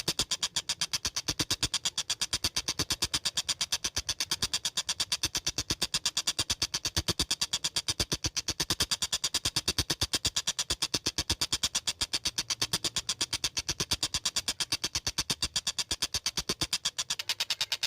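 Tengkek buto kingfisher calling in a fast, unbroken rattle of sharp notes, about seven a second, that chugs like a train.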